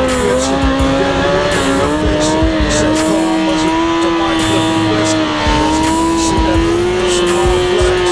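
Kawasaki Ninja ZX-6R sport bike's inline-four engine held at high revs, its pitch stepping up about two seconds in and then climbing slowly and steadily.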